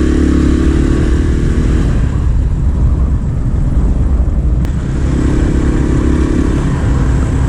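Small 250 cc motorcycle engine running under way, over a steady low wind rumble. The engine note is strong for the first two seconds, drops back, and swells again for a couple of seconds near the end.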